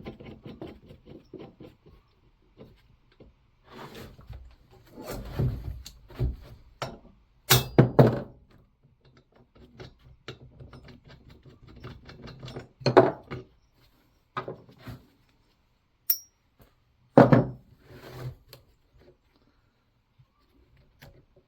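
Hammer striking a flywheel knock-off tool threaded onto the crankshaft of a STIHL 019 chainsaw to shock the flywheel loose from its taper: several sharp metallic blows spaced seconds apart, the loudest a close pair about a third of the way in. Quieter clinks and clatter of tools being handled come in between.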